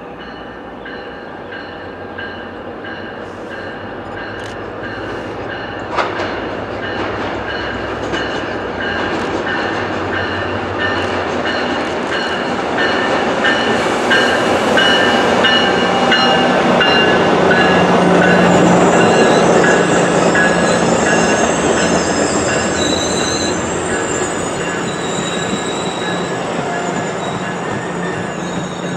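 MARC commuter train led by a diesel locomotive approaching and passing, growing louder to a peak about two-thirds of the way through and then easing off. High steady squealing tones come from the wheels as the coaches go by, and a single sharp knock sounds early on.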